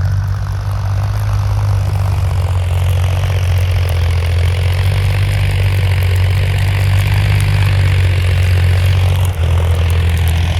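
Farm tractor's diesel engine running steadily with a deep, even drone, dipping briefly about nine seconds in.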